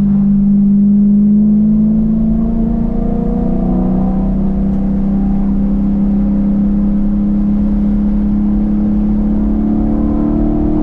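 Dodge Challenger's engine and exhaust running at a steady cruise, its pitch dipping slightly about four seconds in and then climbing slowly as the car gathers speed near the end.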